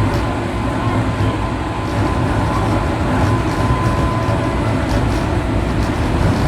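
103 series 1500 subseries electric train running, heard from inside the car: a steady low rumble of motors and wheels on rail, with a faint steady whine and a few light ticks.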